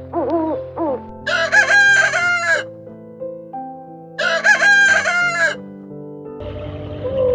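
Rooster crowing twice, about three seconds apart, over soft background music with sustained notes.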